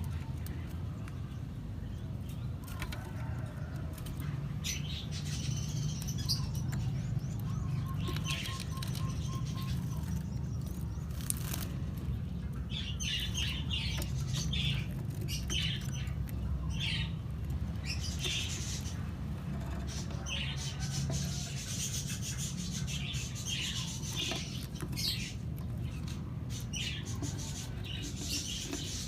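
Lovebirds chirping in short clustered bursts, with wing flapping and rustling, over a steady low hum.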